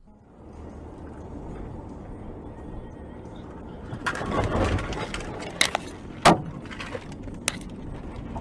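Car road noise from a dash cam, then about four seconds in a loud rush of noise and a series of sharp bangs and cracks, the kind made by a road collision and breaking parts.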